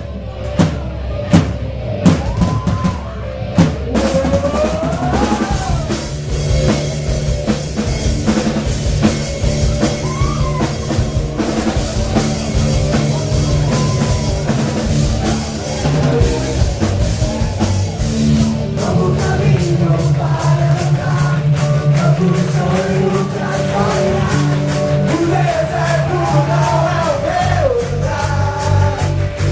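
Rock-style band music with a drum kit and a singing voice: a few sharp drum hits open it, then the full band plays under a sung melody.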